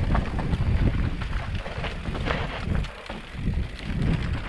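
Wind buffeting the microphone over a rumbling, rattling mountain bike ride down a rough trail, with scattered clicks and knocks.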